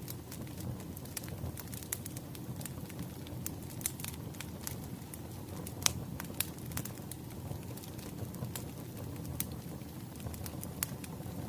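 Burning firewood crackling: a steady low rumble of the fire with irregular sharp pops and snaps, the loudest pop about six seconds in.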